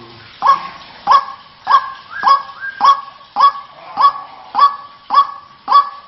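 White-breasted waterhen (ruak-ruak) calling: a harsh note repeated steadily, about ten times, roughly one every 0.6 seconds. This is the kind of call played to lure waterhens in rice fields.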